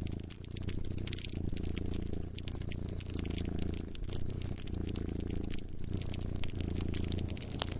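A cat purring close up, a low rumble that swells and dips with each breath about once a second. Over it, a wood fire crackles with a steady scatter of sharp pops and snaps.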